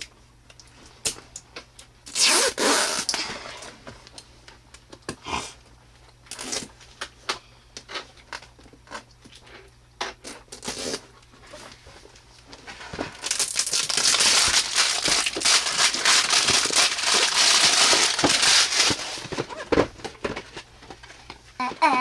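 Toy packaging being torn open and unwrapped by hand: scattered crinkles and clicks, then a long stretch of steady tearing and rustling past the middle.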